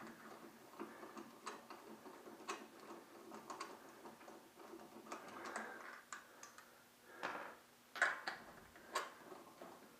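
A hand wrench working the lug bolts of a Mini Cooper's front wheel, making scattered faint metallic clicks and ticks, with a few louder clinks near the end.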